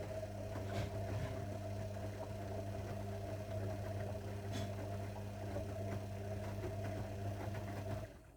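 Zanussi washing machine running with a steady hum that cuts off suddenly near the end.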